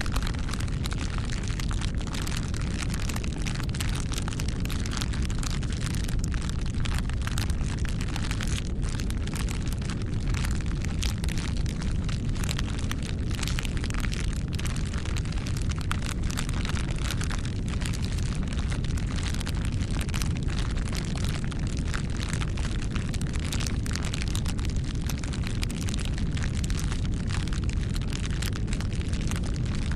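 Wood fire burning, with many irregular crackles and pops over a steady low rumble.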